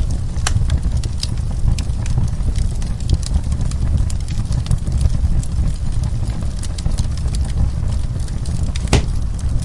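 Wood fire burning in a fireplace, crackling with frequent sharp pops over a steady low rumble of the flames, one louder pop near the end.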